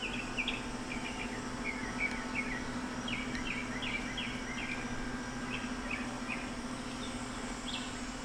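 Birds chirping outdoors: a scattered run of short, high calls over a steady low hum.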